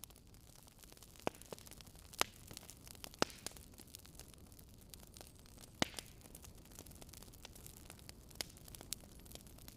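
Wood fire crackling: irregular sharp pops and snaps over a soft, steady hiss, with a few louder pops in the first six seconds.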